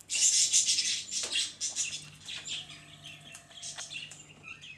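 Wild birds chirping and twittering, with a loud high rushing burst in the first second that fades into scattered fainter chirps.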